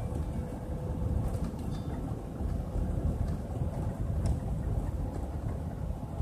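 Steady low rumble of a car driving along, road and engine noise heard from inside the cabin, with a faint steady hum under it.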